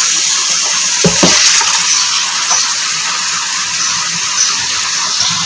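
Raw chicken pieces frying in hot oil in a karahi: a loud, steady sizzling hiss as the meat hits the oil and is stirred.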